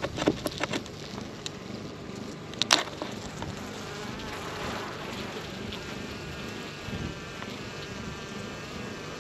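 Honeybees from a wild colony buzzing close by as their comb is cut out and moved, the buzz growing steady and clear from about four seconds in. A few sharp clicks and knocks in the first three seconds, the loudest near three seconds in.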